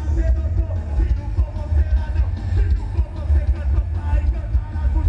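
Live rock band playing over a PA, with heavy, pulsing bass.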